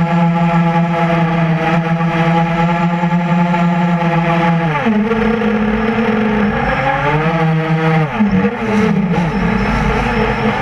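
A QAV400 quadcopter's four brushless motors (Tiger Motor MT-2212 1100kv, 8x5 props), heard from a camera on board. A steady, many-toned whine holds, then drops in pitch about five seconds in as the throttle comes off. It rises again around seven seconds, dips briefly near eight, and climbs again toward the end.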